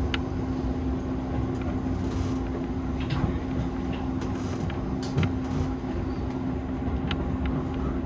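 Keihan electric commuter train running along the line, heard inside the driver's cab: steady running noise of wheels on rail with a constant low hum and a few light clicks.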